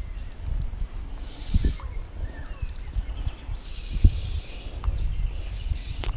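Gusty wind rumbling on the microphone, with faint bird chirps.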